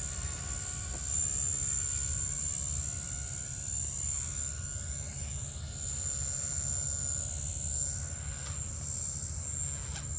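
Blade 150S RC helicopter's electric motor and rotor whining steadily in flight, one high steady whine with a lower tone beneath it that drops out near the end.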